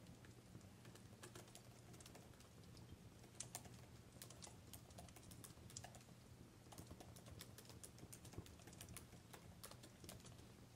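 Faint crackling of a burning wood fire: irregular sharp pops and snaps over a low steady hum.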